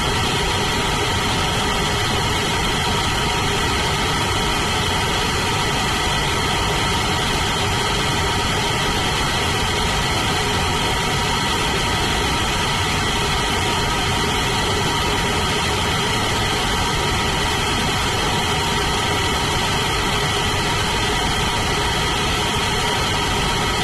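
Blue Origin BE-4 methane-fuelled rocket engine firing on a test stand: a steady, unchanging noise with several steady tones running through it.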